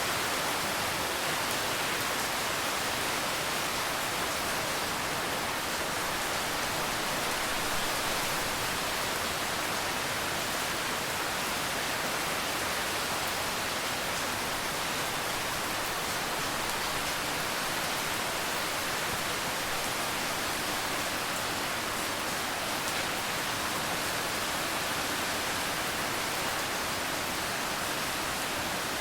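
Steady rain falling, a dense even hiss with no separate drops or thunder standing out.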